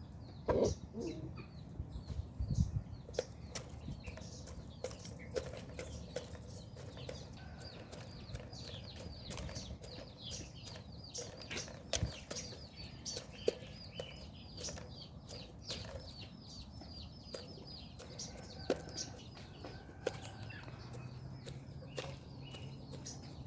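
Birds in a poultry yard: a quick run of small, high chirps that keeps on for most of the time, with scattered sharp clicks and a low thump near the start.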